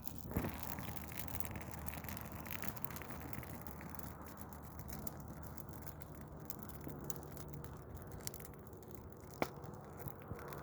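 Douglas fir Christmas tree burning: a steady rush of flame full of small rapid crackles and pops, with one sharper snap near the end.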